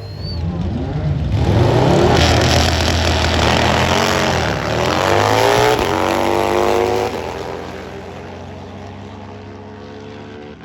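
Drag bike engine at full throttle accelerating down the strip, the pitch climbing, dropping once at a gear change about halfway through and climbing again, then fading away.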